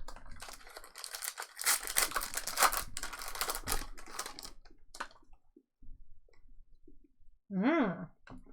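Foil trading-card pack wrappers crinkling and tearing, with cards being handled, dense for about four seconds and then thinning to a few light clicks.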